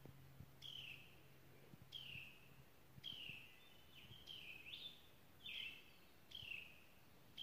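A songbird calling faintly: a short, downward-slurred whistled note repeated about once a second, about eight times. A faint low hum runs underneath for the first couple of seconds.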